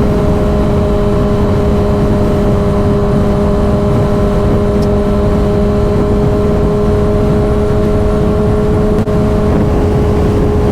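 Motorcycle engine running at a steady cruising speed: an even hum that holds one pitch throughout, over a heavy low rush, with a brief dip in level about nine seconds in.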